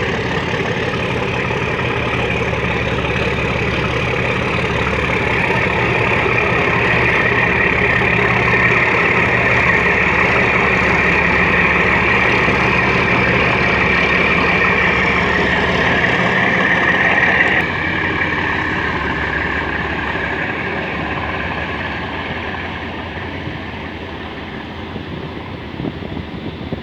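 Passenger ferry's engines running steadily under way, a loud continuous drone with a rushing noise over it. The sound drops a little about two-thirds of the way through, then fades gradually.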